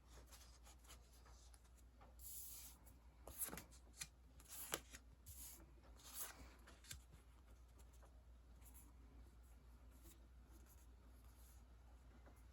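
Faint rustling and a few light clicks and taps from sticker sheets being handled, mostly between about two and seven seconds in.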